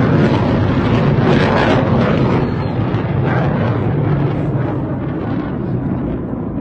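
Air defence interceptor's rocket motor, a loud continuous rushing roar that slowly fades toward the end.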